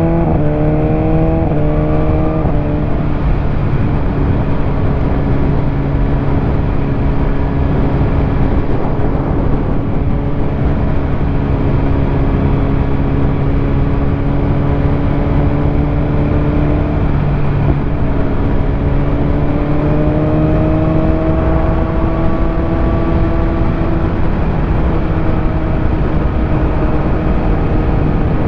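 BMW S1000RR's inline-four engine pulling hard through two quick upshifts in the first couple of seconds, each one a rise in pitch and a sudden drop, then cruising at a steady pitch that climbs slowly partway through, under a heavy rush of wind noise.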